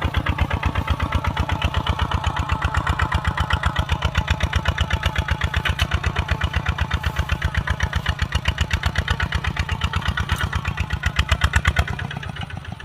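Kubota RT140 two-wheel tractor's single-cylinder diesel engine running with a steady, rapid chug. Near the end it drops quieter.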